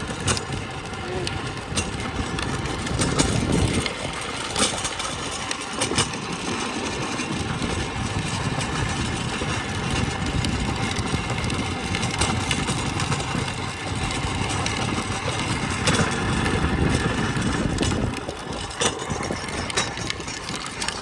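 Steady rumbling noise of riding a trike over rough ground, with wind buffeting the microphone and scattered knocks and rattles.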